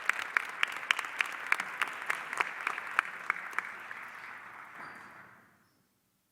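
Audience applauding, with a few louder individual claps standing out about three or four times a second. The applause fades out about five seconds in.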